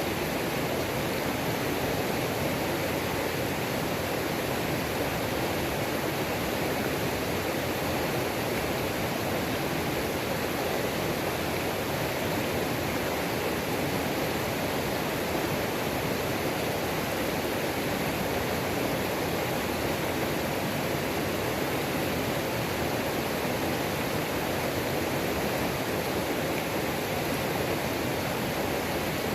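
Waterfall on a mountain creek: a steady, unbroken rush of falling water.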